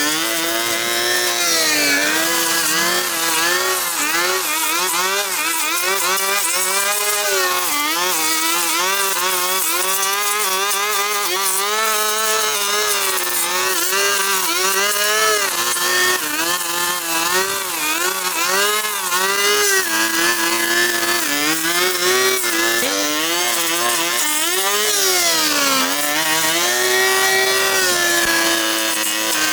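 Small petrol engine of a handheld power tool running hard, its pitch rising and falling constantly as the throttle and load vary, with brief deeper dips a little past the middle.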